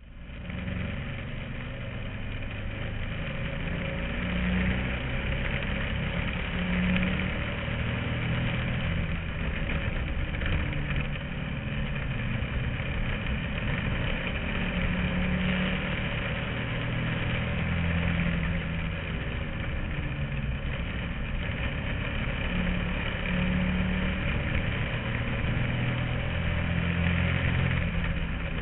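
Bandolero race car's small Briggs & Stratton engine running, heard from inside the car. Its pitch rises and falls every few seconds as the throttle changes.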